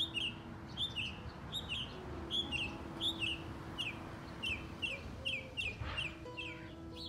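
A small bird chirping over and over, each call a quick pair of falling high notes, repeated about every two-thirds of a second.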